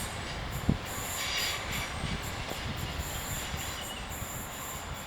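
Passenger train running along the rails through the station, a steady rumble with a thin high wheel squeal over it and a single sharp knock about a second in.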